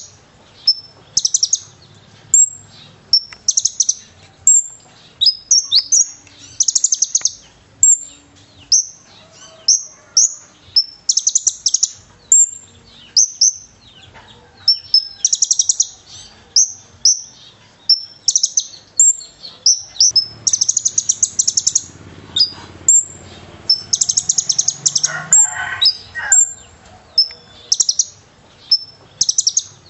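Male olive-backed sunbird (kolibri ninja) singing non-stop: sharp, high chirps repeated in quick succession, broken every few seconds by short buzzy trills. Its song is filled with learned cililin calls.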